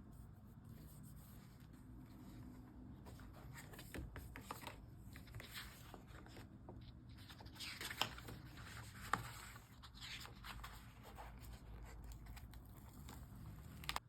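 Close-up scratching and rustling of paper being handled, cut and torn, in irregular strokes, with two sharp clicks about eight and nine seconds in.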